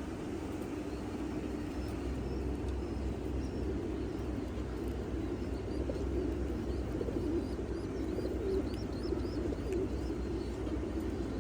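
Many domestic pigeons cooing at once, low overlapping coos that run on steadily. Faint high chirps come in during the second half.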